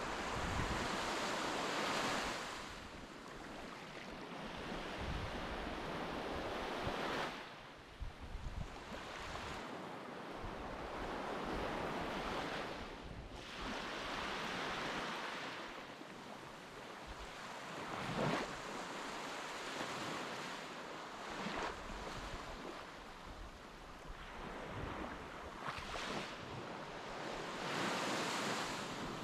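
Waves washing onto a beach, the surf swelling and falling back every few seconds, with wind buffeting the microphone.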